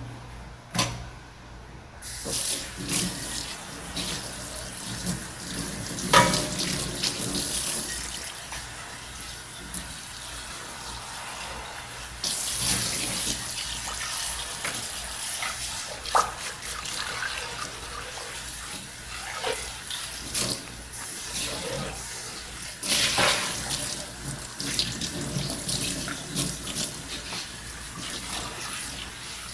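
Tap water running into a kitchen sink while dishes are washed, with scattered knocks and clinks of dishes. The water comes on about two seconds in and runs louder from about twelve seconds in.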